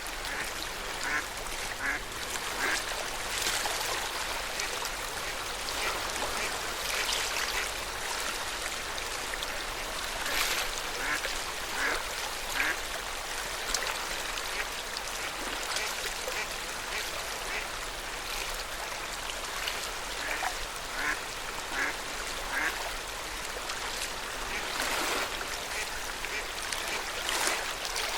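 Small waves lapping and splashing at the lakeshore in a steady wash, with water birds giving short calls at scattered moments.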